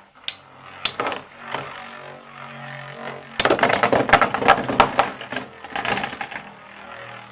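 Two Metal Fusion Beyblades, Burn Fireblaze 105HF and Lightning L-Drago 100SD, spinning in a stadium with a low whirr and a few sharp clacks. About three seconds in they clash in a rapid run of rattling hits that lasts a couple of seconds, then fall back to scattered clicks.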